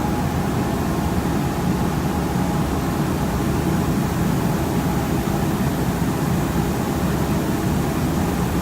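Steady rush of air over a low hum, the running noise of powder-coating equipment: the booth's extraction fan and the compressed-air powder spray gun.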